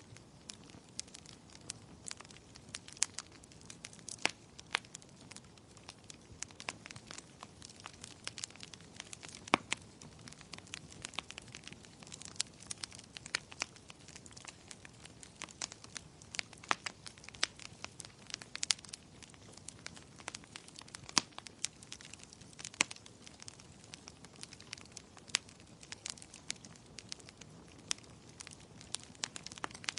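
Fireplace fire crackling: frequent, irregular sharp pops and snaps over a soft, steady hiss.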